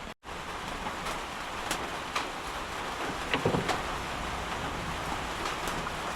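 Steady rain falling, with scattered drip ticks and a few louder knocks about three and a half seconds in.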